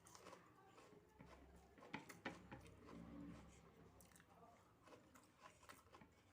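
Faint, close-up chewing and mouth sounds of someone eating soft rice, dal and mashed potato, with a few sharp smacks about two seconds in.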